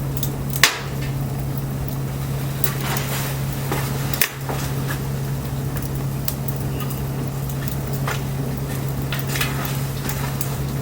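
Wood fire crackling, with scattered sharp snaps and pops, one loud pop a little under a second in, over a steady low hum.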